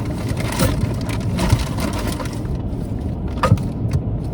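Steady low rumble with a few light knocks and clicks of things being handled, the loudest about three and a half seconds in.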